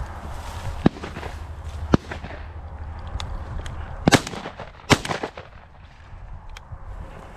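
A series of sharp cracks, about six in all, the two loudest close together near the middle with a short trail after each, over a low rumble of wind on the microphone.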